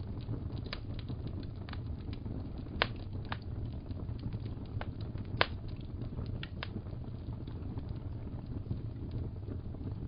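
Wood fire crackling, with a steady low rumble of flames and scattered sharp crackles. Two louder pops come about three and five and a half seconds in.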